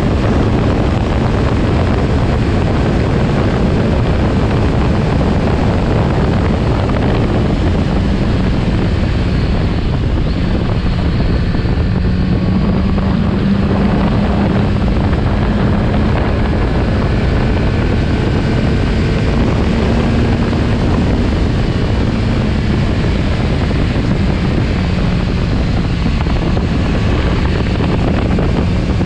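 Kawasaki Z900RS Cafe's 948 cc inline-four engine running at road speed, its note rising and falling a little, under a heavy rush of wind on the microphone.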